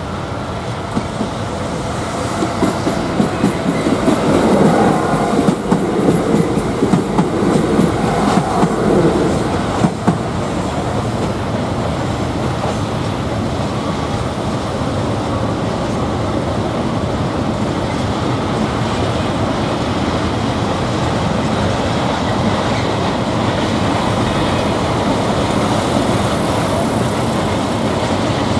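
A train passing close by, its wheels clattering over rail joints and points. Loud, uneven clacks come in the first ten seconds or so, then settle into a steady rolling rumble.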